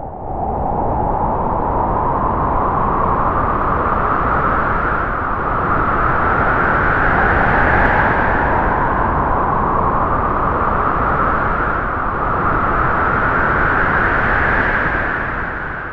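Strong wind howling through trees: a loud, steady rush with a whistling howl that rises and falls in slow gusts, swelling about halfway through and again near the end.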